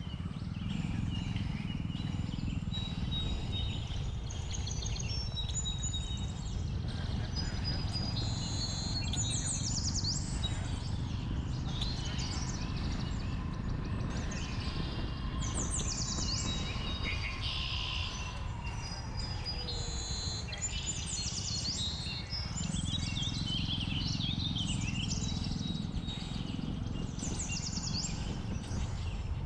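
Many birds chirping and calling in quick, pitch-gliding phrases, over the steady low rumble of a Jawa 42 motorcycle's single-cylinder engine and wind coasting downhill.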